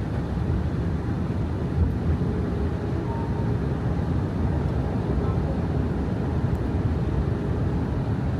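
Airbus A319 cabin noise on the approach to landing: a steady low rumble of the jet engines and airflow heard from inside the cabin.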